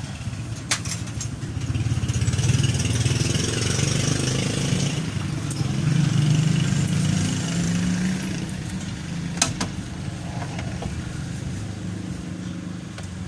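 An engine running steadily, growing louder in the middle and easing off later, with a few sharp clicks.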